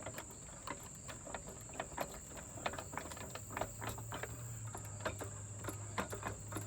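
Hand ratchet on a 10 mm socket clicking in short, somewhat irregular runs of a few clicks a second, as the transmission pan bolts are worked loose. Crickets chirr steadily and high-pitched behind it.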